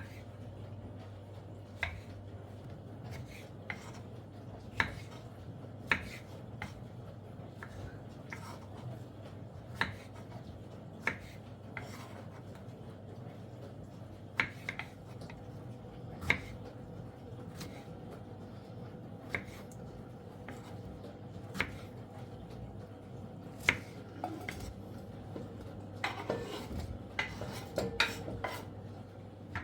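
Dishes and cutlery clinking now and then, a sharp clink every second or two, with a busier clatter near the end, over a steady low hum.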